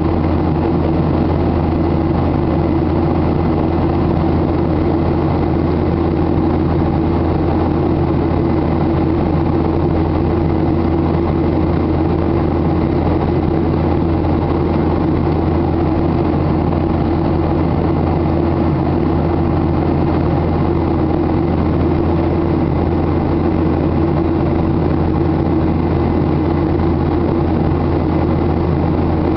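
Steady, unbroken drone of a Boeing 737-800 in flight, its CFM56 jet engines and rushing air heard from inside the cabin, with a low hum under it.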